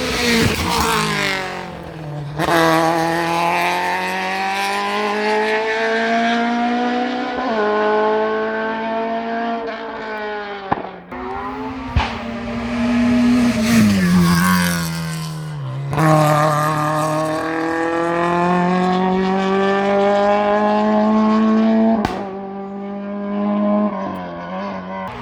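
Racing car engine at full throttle on a hillclimb, revs climbing in each gear with a gear change every few seconds. About halfway through the revs fall away as it slows for a corner, then it accelerates through the gears again.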